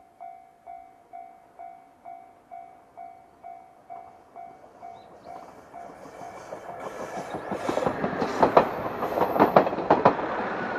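KiHa 66 diesel railcar approaching and passing close by, growing louder from about halfway, its wheels clacking over the rail joints loudest in the last few seconds. A ding repeats about twice a second throughout.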